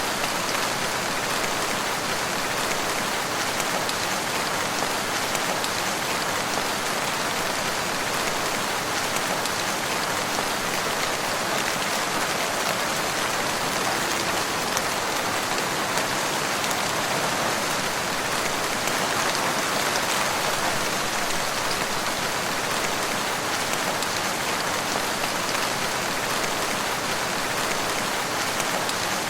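Steady rain falling in a forest, an even hiss of raindrops on leaves and ground with no thunder or change in strength.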